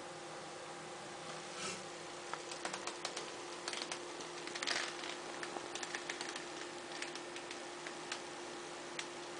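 Faint, irregular light clicks and ticks with two brief rustles, over a steady low hum.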